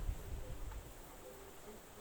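Wind gusting against the microphone, a low rumble strongest about the start that eases off, with faint distant voices.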